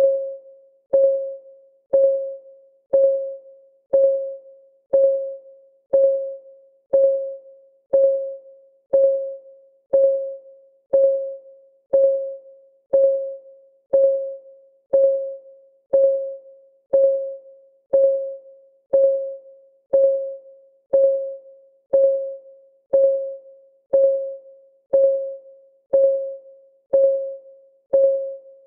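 Countdown timer's electronic clock-tick sound: a short, pitched tick once a second, each ringing briefly and fading, in an even, unbroken rhythm.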